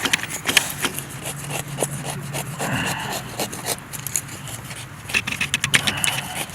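Wood being worked by hand for kindling: a run of irregular scraping and rasping strokes with small knocks, over a faint steady low hum.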